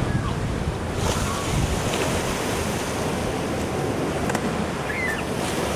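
Ocean surf washing steadily, with wind buffeting the microphone and adding a low rumble.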